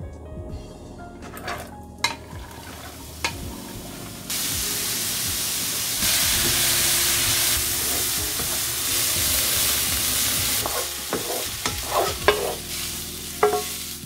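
Finely minced onion, carrot and zucchini frying in sesame oil in a stone-coated frying pan, stirred with a wooden spatula. The sizzle sets in about four seconds in and grows louder around six seconds, then gives way near the end to scrapes and knocks of the spatula against the pan.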